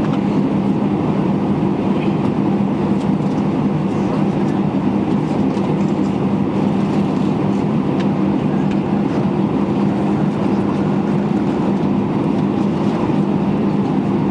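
Steady drone inside an airliner cabin, its engines and air system running with a constant low hum, with a few faint clicks and rattles.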